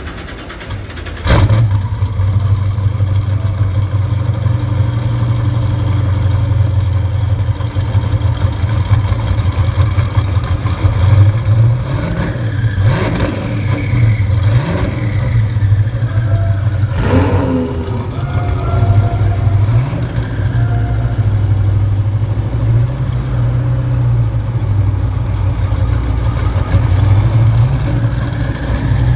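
A supercar engine catches with a sudden rise about a second in, then runs at a loud, steady idle with a deep exhaust drone and only small changes in pitch.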